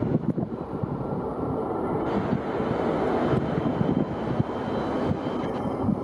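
Airliner engine noise, a steady rushing roar with a faint whine that swells slightly about two seconds in, with wind buffeting the microphone.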